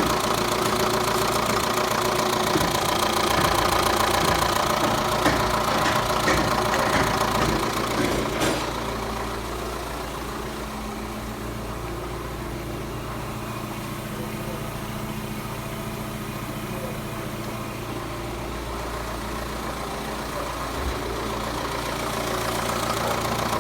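Chrysler Voyager 2.8 CRD four-cylinder common-rail turbodiesel (ENR) running at idle. It is louder for the first third, then drops and holds steady, rising slightly again near the end.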